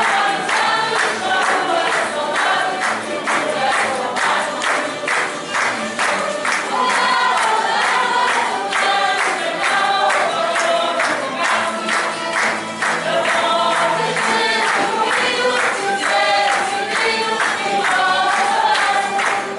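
A group of voices singing together in chorus over instrumental accompaniment with a steady beat.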